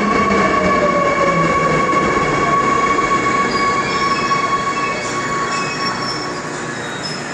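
Seoul Subway Line 2 electric train braking to a stop at a platform. Its motor whine falls in pitch as it slows, under a steady high squeal that fades out about six seconds in, with a few short, high brake squeaks near the end.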